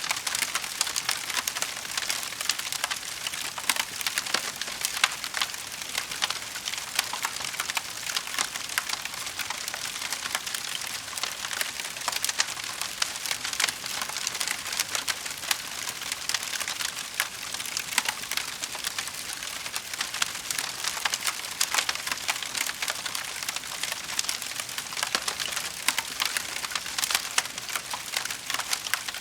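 Wood fire crackling in a fireplace: a dense, unbroken stream of small pops and snaps over a soft hiss, with a few louder snaps here and there.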